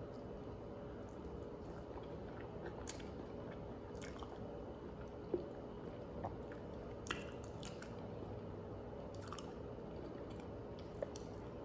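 A person chewing food, with scattered short wet smacks and clicks every second or two over a steady background hiss.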